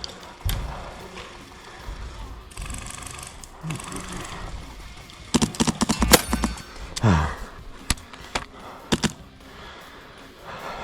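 Airsoft guns firing during a firefight: a quick burst of shots a little past halfway, then a few single shots.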